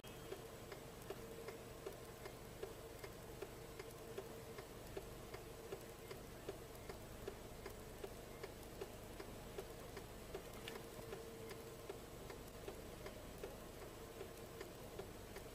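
Faint, even ticking, a few ticks a second, over a low steady hum.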